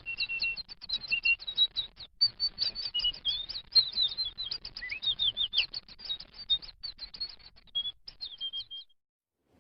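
Birds chirping: a quick, dense run of short, high chirps, each falling in pitch, at several different pitches, stopping about nine seconds in.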